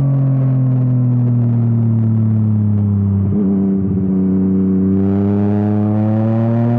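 Yamaha MT-09's three-cylinder engine through an Akrapovič exhaust, ridden on the road: the engine note falls slowly, breaks briefly about halfway, then climbs steadily as the bike pulls again.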